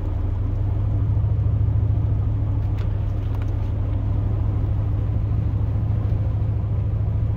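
Steady low drone of a pickup truck's engine and tyres, heard from inside the cab while it cruises on a highway.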